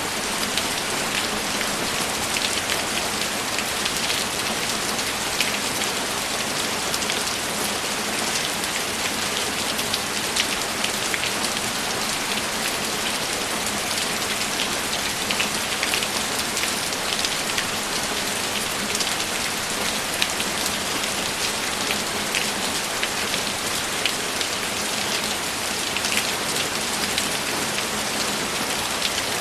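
Steady, heavy rainfall, with many individual close drops ticking through the even hiss.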